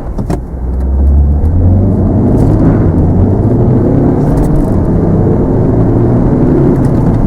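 Volvo XC60 T6's 3.0-litre turbocharged inline-six petrol engine under hard acceleration: a low rumble that swells about a second in and then holds loud and steady.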